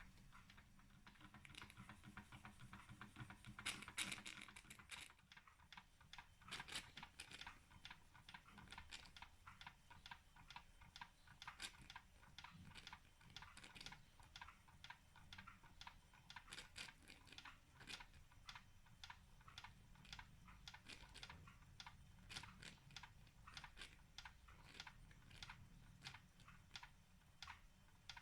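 Wilesco D20 model steam engine running, a quick, uneven train of light ticks and soft chuffs, several a second, a little louder about four seconds in.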